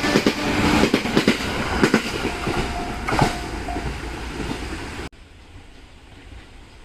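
A train on the JR Ito Line running past at a level crossing, its wheels clacking over the rail joints and the noise slowly fading. About five seconds in the sound cuts off suddenly, leaving only a much quieter background.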